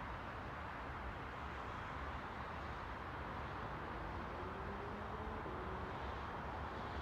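Steady rushing ambient noise with a low rumble underneath, from a real-life outdoor field recording; a faint tone rises slightly about four seconds in and fades near six seconds.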